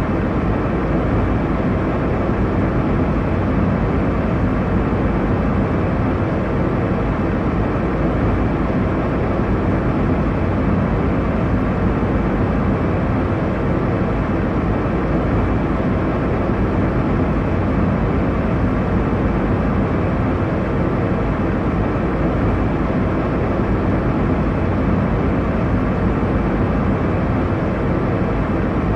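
Airliner cabin noise in flight: a steady, even rushing drone, heaviest in the low range, with no changes or distinct events.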